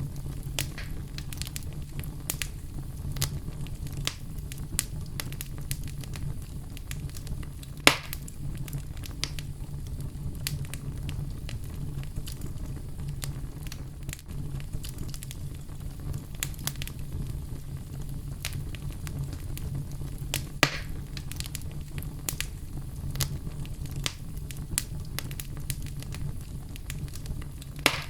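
Oak logs burning in a fireplace: a steady low rumble of flames with frequent small crackles and three louder pops, the loudest about eight seconds in.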